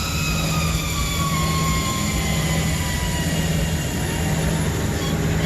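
Rooftop refrigeration condensing unit running with a steady mechanical hum, with faint whining tones that slowly fall in pitch. The technician judges the compressor failed, with its valves shot and the compressor running very hot.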